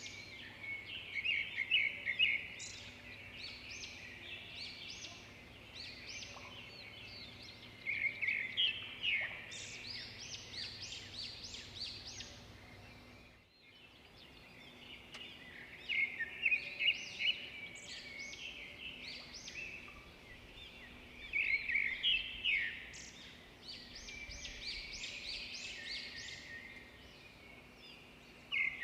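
Songbirds singing: bursts of quick chirps and trills every few seconds over a faint steady background hum, with a brief dropout in the sound about halfway through.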